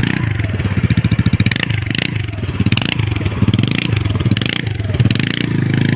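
Honda Activa 125 scooter's single-cylinder engine running with its silencer broken off, so the open exhaust sounds loud and raw. It is revved up and down repeatedly, about twice a second.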